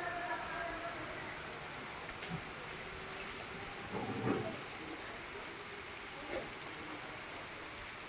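Steady rain falling, an even hiss with scattered taps of drops.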